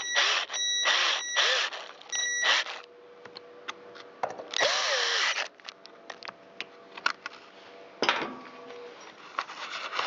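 Power screwdriver run in short bursts, its motor whining up and stopping each time, as it snugs the screws holding a chainsaw's ignition coil. There are several quick bursts in the first few seconds and one more near the middle, followed by light clicks and taps of parts being handled.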